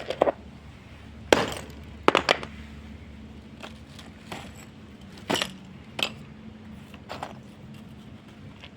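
Old balcony tiles being struck and broken up: about a dozen sharp cracks and clinks at uneven intervals, some in quick pairs, over a low steady hum.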